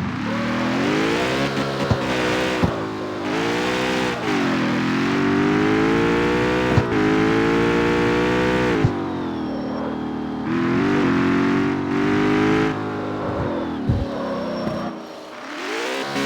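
Jaguar F-Type's supercharged 5.0-litre V8 pulling up through the revs several times, its pitch dropping back in between, with sharp exhaust cracks and pops going off now and then.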